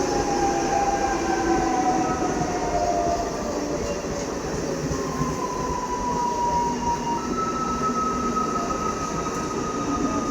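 Electric multiple unit (EMU) local train running past, a steady rumble of wheels on rail with thin whining tones that slowly fall in pitch.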